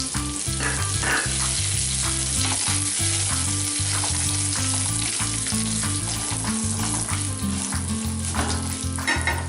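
Tempering in hot oil: curry leaves added to mustard-seed seasoning and dried red chillies, sizzling steadily with many small crackles and pops.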